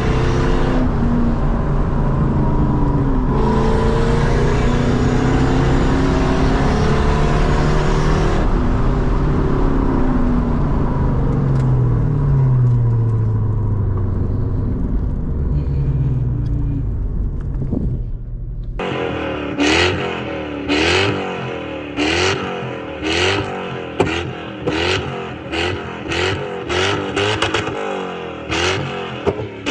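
Lexus SC400's 1UZ V8 through a loud exhaust, pulling under part throttle with the pitch rising and falling through the gears. About two-thirds of the way in, this gives way abruptly to a rapid string of short, sharp revs, roughly two a second.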